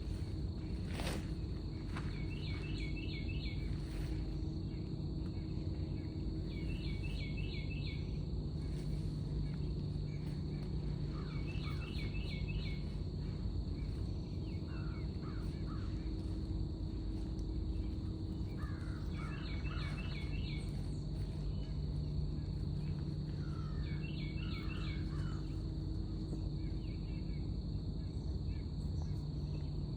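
A steady high-pitched insect trill, like crickets, runs throughout. A bird repeats a short phrase of several quick notes about every five seconds. Under both is a constant low rumble.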